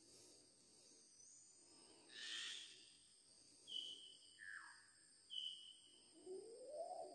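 Faint forest bird calls: a few short, high whistles and a quick falling note, then a lower rising call near the end, over a steady high insect drone.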